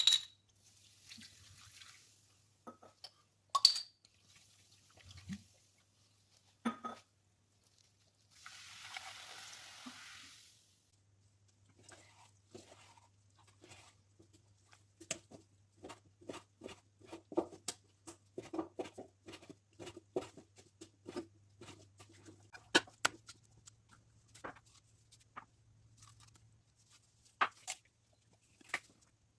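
Kitchen food-prep handling: sharp clicks and clinks of utensils and containers, a short rushing noise lasting about two seconds some eight seconds in, then a long run of irregular light taps and clatter.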